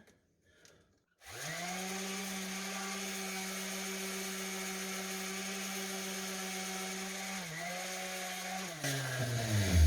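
Electric motor of a workshop power tool switched on about a second in, quickly coming up to speed and running at a steady pitch, with a brief dip under load. Near the end it is switched off and winds down with a falling pitch.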